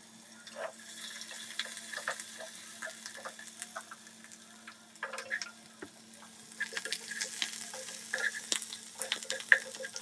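Onion, garlic, cumin and ginger frying in hot oil in a nonstick saucepan, sizzling with many small irregular crackles that grow denser in the second half, with a wooden spatula stirring them near the end.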